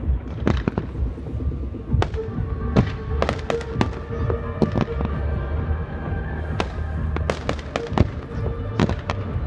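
Fireworks display: aerial shells and comets going off in sharp bangs and crackles at irregular intervals, thickest about three seconds in and again near the end, over a continuous low rumble.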